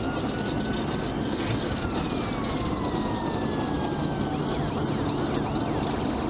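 Police siren sounding over steady engine and road noise from the pursuing police car: a slow falling wail, then quicker yelping sweeps near the end.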